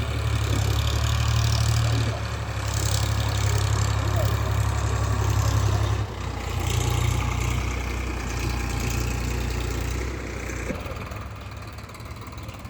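Eicher 557 tractor's diesel engine running, with a deep low note that shifts about six seconds in and eases off about ten and a half seconds in.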